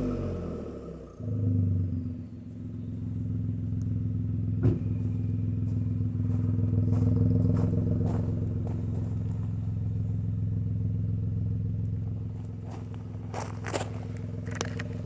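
Citroën C4 Cactus 1.2 three-cylinder turbo petrol engine running through a muffler-deleted 2.5-inch exhaust. A rev dies away at the start, there is a short blip about a second in, and then it settles into a steady idle. A few sharp clicks come in the middle and near the end.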